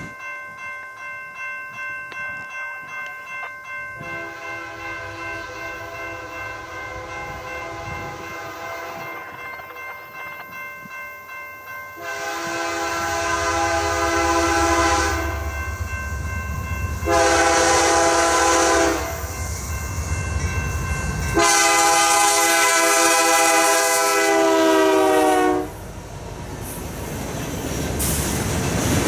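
Diesel locomotive's multi-chime air horn sounding for a grade crossing. Fainter blasts at first, then a long loud blast, a short one and a final long one whose pitch drops as the locomotive passes. The rumble and wheel clatter of the passing train follow.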